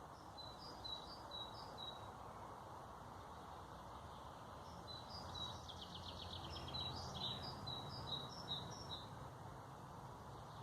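A songbird singing two phrases of repeated high notes, the first short near the start, the second longer with a brief trill in the middle, over a steady low background hiss.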